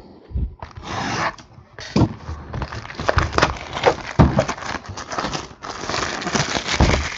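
A box of trading cards being opened by hand: irregular crinkling, crackling and rustling of wrapper and cardboard, with scattered sharp clicks and a longer continuous rustle near the end.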